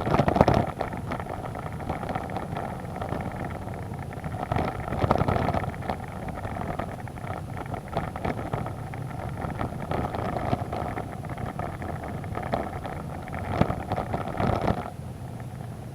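Motorcycle engine running under way, with wind buffeting the microphone. It cuts in suddenly and swells louder twice, about five seconds in and near the end, then drops away just before the end.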